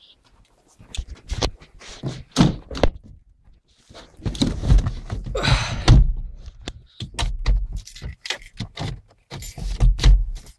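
Irregular clunks, knocks and rustling, like a car door being opened and shut and someone getting into the seat, with a jingle of keys; the engine is not yet running.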